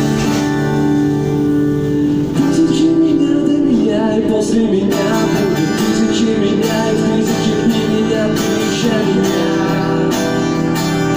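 Acoustic guitar strummed in steady chords, with a voice singing a melody over it from about two seconds in until near the nine-second mark.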